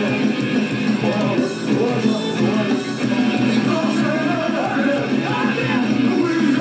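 Live punk rock concert recording: a male lead vocal sung over a loud, full band with electric guitars.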